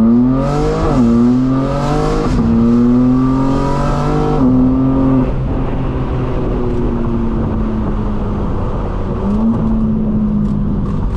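Straight-piped, tuned BMW M4 Competition's twin-turbo inline-six accelerating hard through the gears: the revs climb and drop at three quick upshifts in the first four and a half seconds, with a rasp from the exhaust. Then the engine settles to a steady, slowly falling drone, rising briefly once more near the end.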